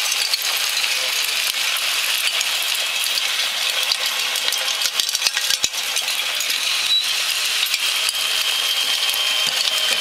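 Bucket wheel excavator digging into regolith simulant: a steady, dense rattle and crackle of grit and gravel scraping and tumbling in the buckets, with the mechanism running under it and a faint steady whine in the second half.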